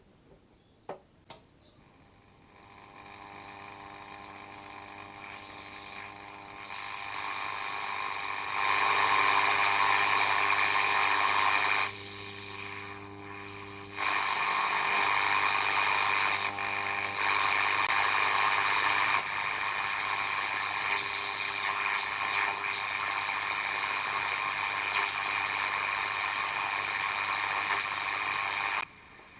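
Restored Ternawa 302 car radio giving out a steady hiss and hum from its speaker, with no station or music coming through. The level rises in steps over the first several seconds, drops and returns a few times, and cuts off sharply near the end.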